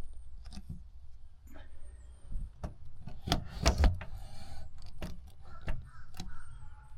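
Handling of tail light parts and tools: a series of sharp clicks and knocks, with a short scraping rustle about four seconds in.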